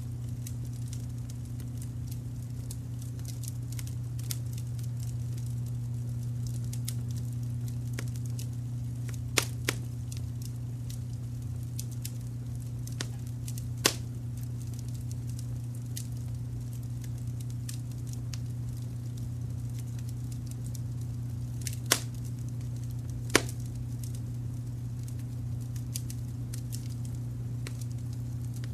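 Wood fire crackling with frequent small snaps and a few sharp louder pops, about a third of the way in and again near three-quarters. Underneath runs a steady low rumbling brown-noise layer.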